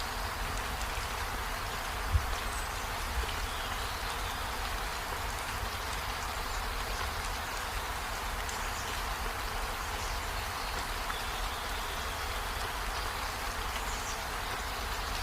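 Steady rain falling, an even hiss with a low rumble underneath, and a brief low thump about two seconds in.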